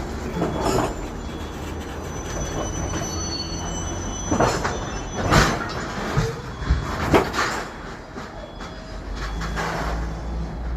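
Freight train moving: a steady low diesel locomotive rumble with a faint high wheel squeal and several sharp clanks from the cars, loudest about five and seven seconds in.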